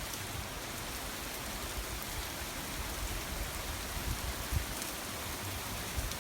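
Heavy rain pouring down in a forest: a steady, even hiss of rain, with irregular low rumbles underneath.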